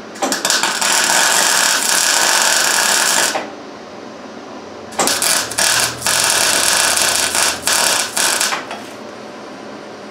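Two welding beads laid with an electric arc welder, each a few seconds long: a dense, steady crackling hiss, with the second one sputtering and breaking off several times. The welding is on painted steel, and the welder complains about the paint.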